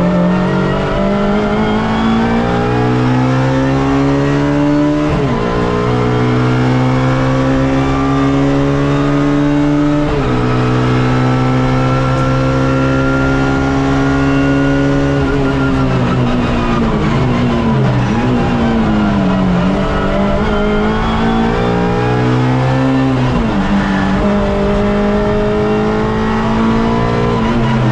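Suzuki Swift race car's engine heard from inside the car, pulling hard up through the gears with sharp upshifts about five and ten seconds in. It then falls away under braking with a string of downshifts before accelerating again near the end.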